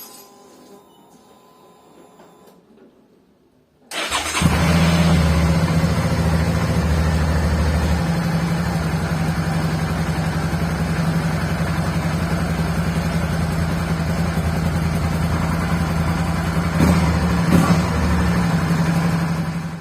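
Suzuki V-Strom DL650 V-twin motorcycle engine with a Dominator HP1 aftermarket exhaust, starting about four seconds in and then idling steadily, with two quick throttle blips near the end.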